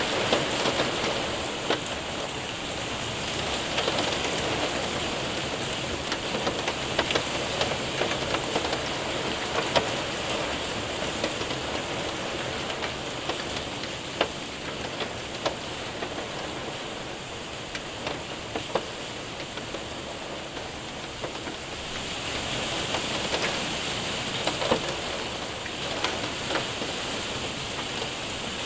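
Steady rain mixed with hail hitting a window and roof, with scattered sharp ticks of hailstones over the constant hiss of rain.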